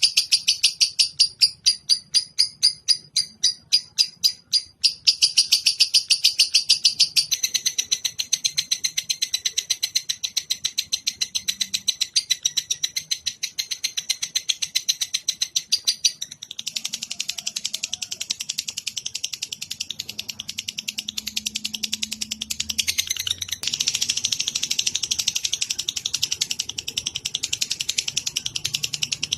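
Songbird chattering in a masteran birdsong recording. It starts as a string of sharp high chips about three a second, then runs into fast continuous trills that shift in pattern several times.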